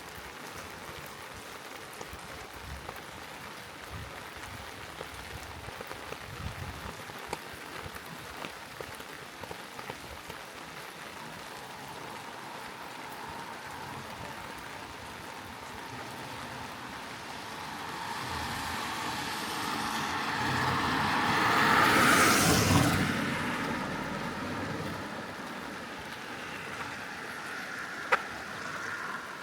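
Steady rain falling throughout. A vehicle passes on the wet road, its tyre hiss swelling over several seconds to a peak about two-thirds of the way through, then fading. There is a single sharp click near the end.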